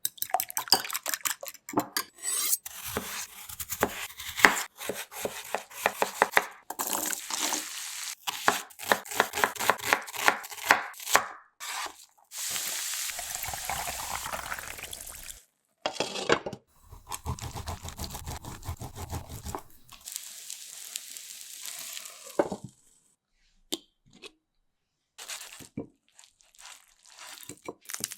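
Food being prepared with kitchen utensils: runs of quick taps and clicks, then a steady hiss for about three seconds, then another steady stretch, ending in a few scattered taps.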